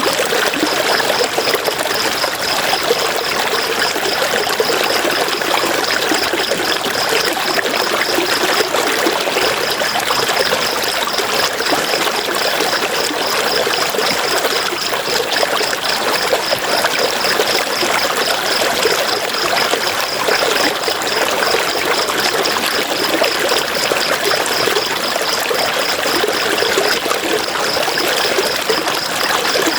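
River water flowing in a steady, even rush with trickling. A high, rapidly pulsing chirp rides above it, breaking off briefly about nine seconds in and again near the end.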